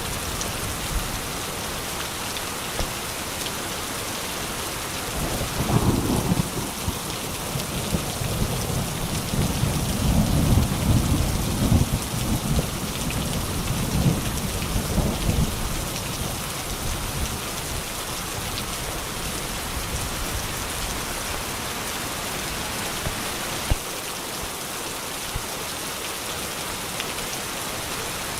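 Steady rain falling through a thunderstorm, with rolling thunder rumbling in low swells from about five seconds in until about sixteen seconds in. A single sharp crack sounds near the end.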